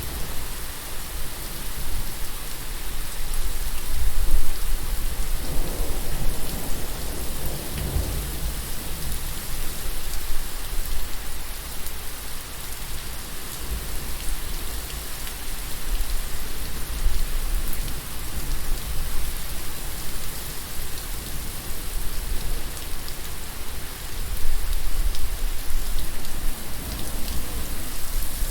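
Steady rain falling, with a low roll of thunder that swells and fades between about four and eight seconds in.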